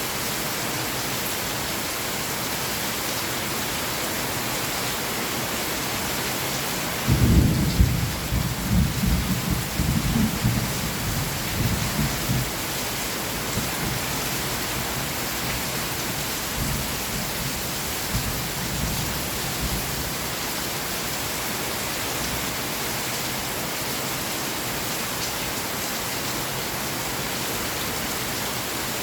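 Steady rain, with a thunderclap about seven seconds in that rumbles on for several seconds and dies away.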